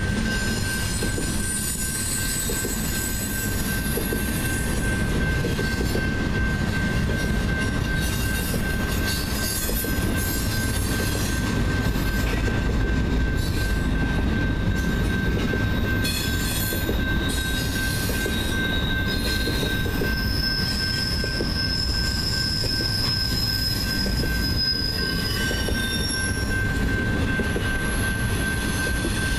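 BNSF double-stack container train passing at speed over a grade crossing: a steady rumble of wheels on rail with a constant high tone over it. High wheel squeals come and go, the longest lasting several seconds about two-thirds of the way through.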